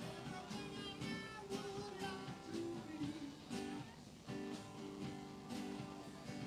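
Live band playing, with guitar to the fore over an even strummed beat; the music thins briefly about four seconds in.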